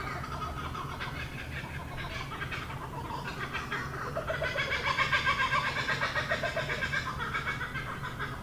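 Animal calls: a dense chorus of fast, repeated calls that swells about halfway through into a pulsing rhythm of a few beats a second, over a steady low hum.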